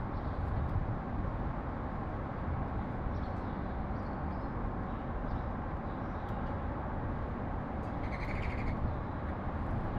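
Steady low rumble of city traffic, with a few faint sparrow chirps and one short, clear bird call about eight seconds in.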